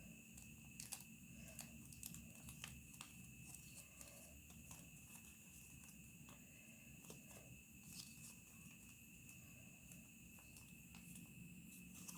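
Near silence with faint, irregular crinkles and taps of origami paper being handled and folded, over a steady faint high-pitched whine.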